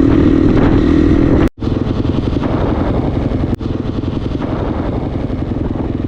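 KTM 350 dirt bike's four-stroke single-cylinder engine running steadily while ridden. The sound cuts out completely for a moment about one and a half seconds in, then comes back with a more pulsing engine note.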